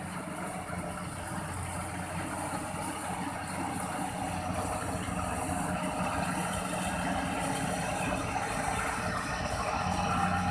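Kubota rice combine harvester running steadily, its engine humming under the clatter of the machine, growing gradually louder.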